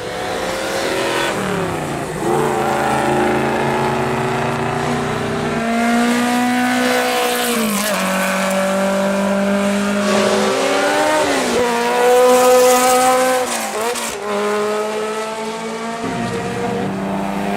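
Classic racing car engines accelerating hard along a straight. The engine note climbs steadily in pitch and drops sharply at each upshift, about three times in a row.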